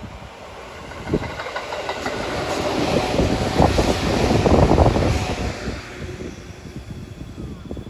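Electric train passing at speed, its wheels clacking over rail joints: it builds from about a second in, is loudest about four to five seconds in, and fades away.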